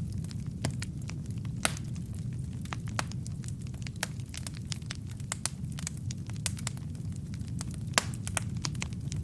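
Wood fire in a fireplace: a steady low rumble of the flames with frequent, irregular sharp crackles and pops from the burning logs, two of them louder, about one and a half seconds in and near the end.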